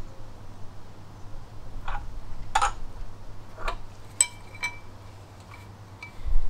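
Hand tools working on a steel engine stud locked with two nuts: about six separate metallic clicks and clinks, a couple of them ringing briefly.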